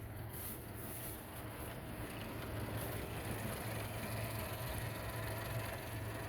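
Outboard motor idling steadily, a low even hum.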